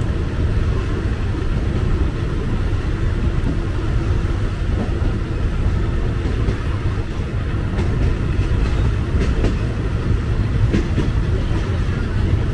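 Third-class passenger train running on the rails: a steady low rumble, with a few faint clicks from the wheels in the second half.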